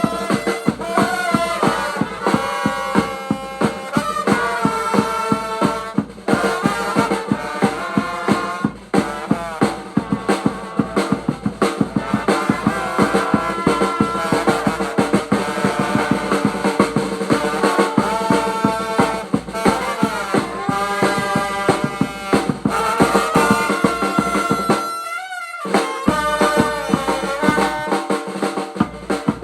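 Vietnamese funeral brass band playing: a brass melody over a drum kit beating out rapid snare and bass drum strokes.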